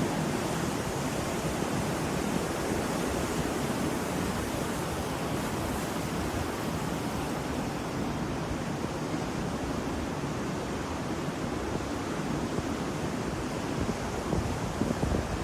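Ocean waves washing on a shore, an even steady rush with no single breaker standing out. The sound gets a little louder near the end.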